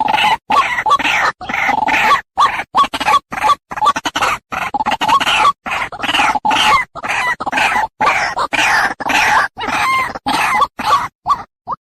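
White-breasted waterhen calling: a fast run of short, harsh repeated notes, about two a second, broken by brief gaps, thinning to single short notes near the end.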